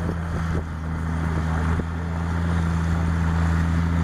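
Case IH 170 CVX tractor engine running steadily while pulling a working baler: a constant deep drone.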